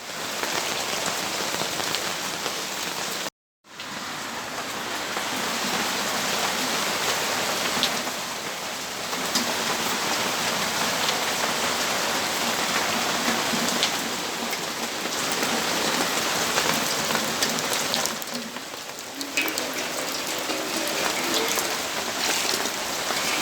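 Steady rainfall, drops pattering on surfaces in an even hiss that swells and eases a little. The sound cuts out completely for a split second a little after three seconds in.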